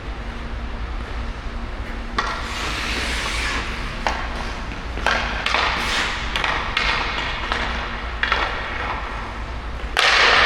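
Hockey skate blades carving and scraping on rink ice in repeated strides, with a few sharp clicks of stick or puck and a steady low hum underneath. The loudest, longest scrape comes near the end.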